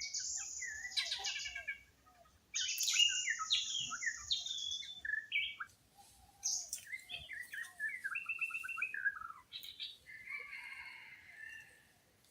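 Several wild birds singing and calling over one another. A high, steady trill sounds twice, about two seconds each time, over a tangle of chirps and short falling whistles, and later comes a run of quick stepped notes.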